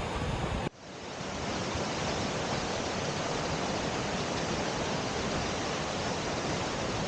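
Steady rushing of a 55 m plunge waterfall. About a second in, the sound briefly drops out and comes back.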